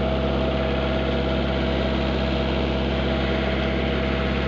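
Kubota tractor engine idling steadily, just after being started.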